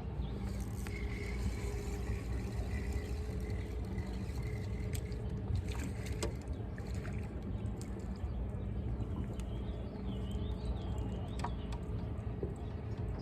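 Steady low rumble of a small fishing boat on open water, with a faint hum and a few light clicks and knocks scattered through.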